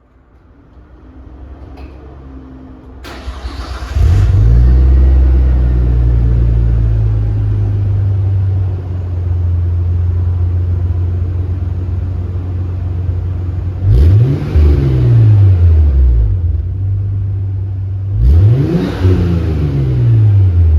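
Exhaust of a Nissan Skyline ER34's RB25DET turbocharged straight-six through an aftermarket front pipe and HKS Silent Hi-Power muffler. The engine comes in loud about four seconds in, runs at a steady idle, then is revved twice, each rev rising quickly and falling back to idle.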